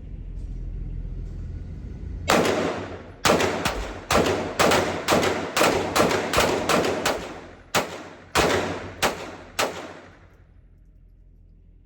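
A handgun fired in a rapid string, about fifteen shots over some seven seconds with short, uneven gaps, each shot followed by a brief echo.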